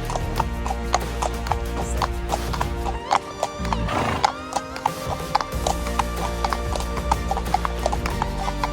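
Horses' hooves clopping at a walk, about three hoofbeats a second, over background music with held chords.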